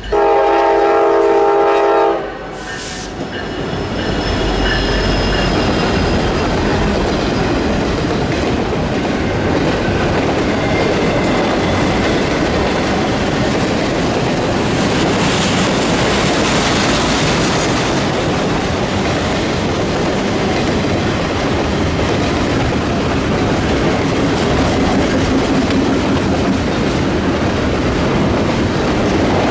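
Diesel freight locomotive's air horn sounds one blast of about two seconds at the start. Then a long double-stack intermodal freight train rolls steadily past, its wheels making a continuous rumble with clickety-clack over the rail joints.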